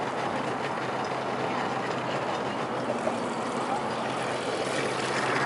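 An engine running steadily, a low hum under an even wash of noise.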